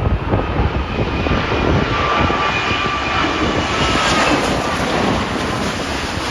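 Jet airliner passing low overhead on final approach, its engine whine drifting down in pitch as the noise swells to a peak about four seconds in. Gusting wind buffets the microphone throughout.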